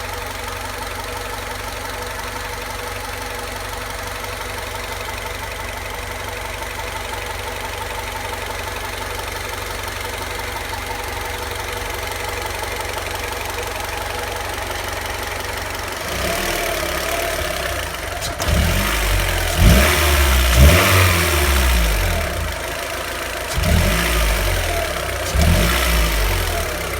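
Car engine idling with a noise at idle that the owner finds loud and cannot identify. Past the middle the engine is revved in several short throttle blips, the pitch sweeping up and back down each time.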